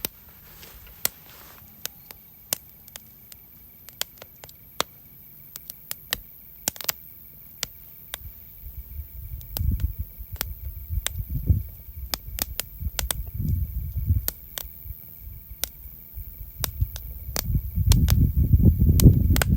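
Burning firewood in a campfire crackling, with sharp pops at irregular intervals. A faint steady high tone runs underneath, and a low rumbling noise builds in the second half.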